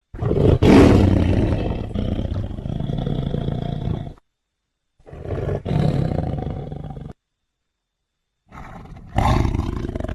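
Film sound effects of a sabre-toothed cat (Smilodon) roaring and growling, in three separate clips with dead silence between them. The first is a long roar, loudest about a second in, that trails into a growl. A shorter growl follows, and a third begins faintly and swells into a roar near the end.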